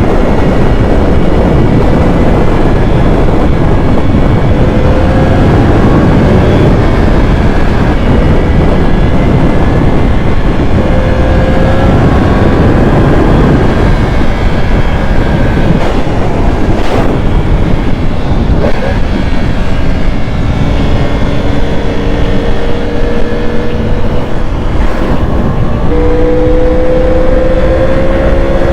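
Yamaha R1 inline-four engine running under way, with heavy wind rush over the microphone. About two-thirds of the way in, the engine note begins climbing slowly and steadily as the bike pulls harder.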